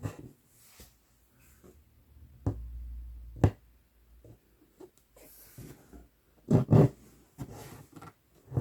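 Close-miked cross-stitching: a string of short pokes, tugs and rustles as a needle and floss are drawn through Aida fabric, with the loudest pair about two-thirds of the way through.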